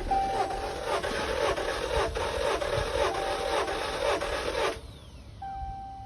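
2015 Chrysler 200's 2.4-litre four-cylinder engine cranking on the starter without catching, then stopping about five seconds in. The cranking sounds like no compression.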